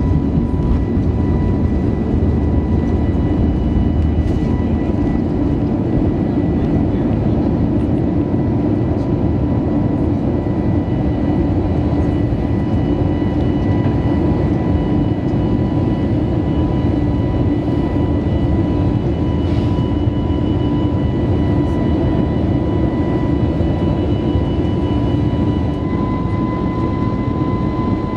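Airbus A321neo jet airliner in flight: steady engine and airflow noise, with a faint steady whine over the low rush.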